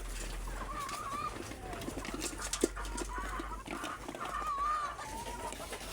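Chickens clucking, with a few drawn-out wavering calls and one sharp tap about two and a half seconds in.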